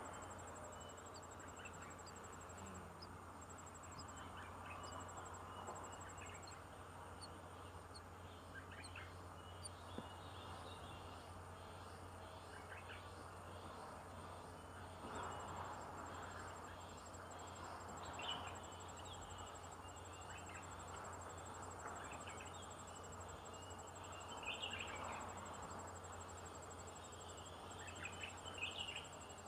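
Outdoor ambience: a steady high insect trill, like crickets, with scattered short bird chirps that come more often in the second half, over a low steady hum.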